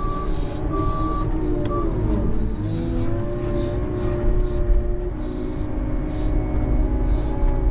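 Plow vehicle's engine running under load while pushing snow. Its pitch dips about two seconds in, then rises and holds. A repeating electronic beep sounds over it for the first couple of seconds.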